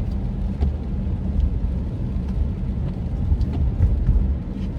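Road noise inside a moving car's cabin: a steady low rumble of engine and tyres, with a few faint ticks.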